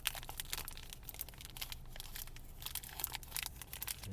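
Snack-bar packaging crinkling and tearing as it is opened by hand, a dense run of quick crackles.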